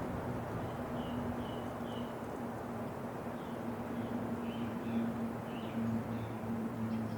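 Steady wind noise with a low steady tone under it, and a small bird chirping in short runs of quick notes, two or three a second.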